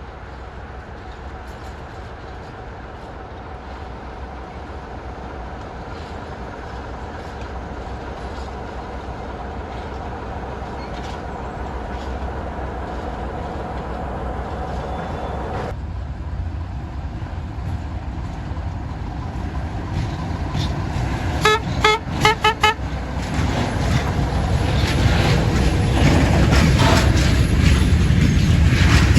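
Approaching railway locomotive sounding a long horn blast that cuts off suddenly about halfway through, then about four short toots, while the rumble of the train grows steadily louder toward the end.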